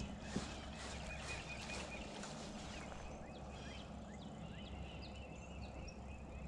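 Songbirds chirping, with short high notes repeated over and over, above a faint steady low hum. A couple of small knocks come near the start.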